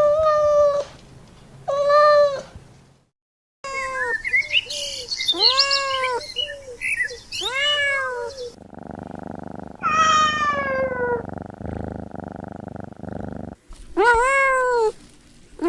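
Cats meowing, a string of short meows that each rise and then fall in pitch, cut together from several clips with abrupt changes and one brief silence. Near the middle comes one longer meow that slides steadily downward over a steady low hum.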